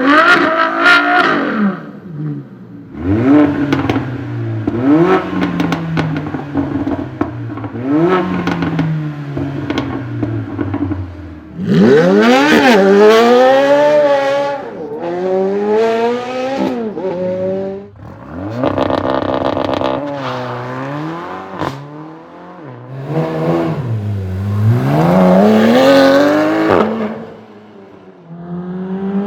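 Supercar engines revving and accelerating hard, their pitch climbing and falling back again and again over a series of cuts between different cars.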